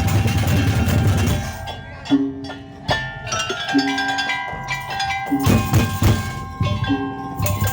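A Madurese tong-tong ensemble playing live: heavy drum beats under repeated short, ringing pitched notes from mallet-struck instruments.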